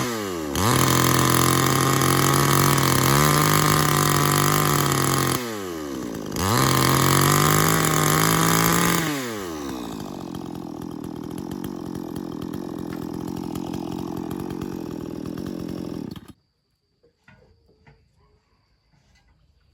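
Chainsaw running at full throttle in two long bursts, its engine note falling away between them, then idling for about seven seconds before it is switched off about sixteen seconds in.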